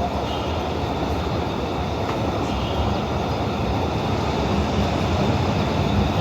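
Abu Qir line passenger train running, a steady rumble of wheels on rails heard from inside the carriage, with a few faint ticks.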